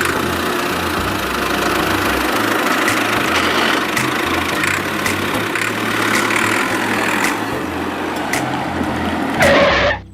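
A steady mechanical running sound with a low hum, like an engine idling, that cuts off abruptly near the end.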